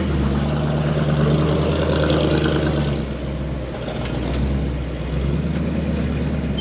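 Vehicle engine running steadily at low speed, a bit louder for the first few seconds and then easing off slightly.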